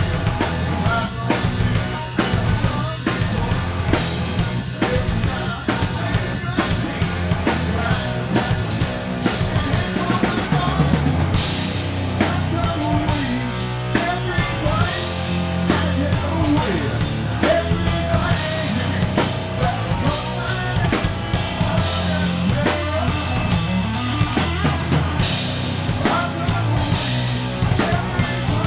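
Rock band playing live, the drum kit prominent over a full band mix. About twelve seconds in, the cymbals turn busier and brighter.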